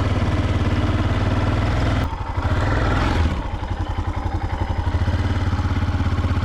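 Dirt bike engine running steadily while riding. About two seconds in, the note dips and then swells briefly before settling back.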